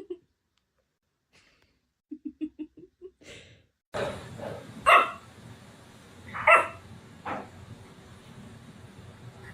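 A dog barking: three loud barks starting about five seconds in, the first two the loudest, after a few faint short sounds.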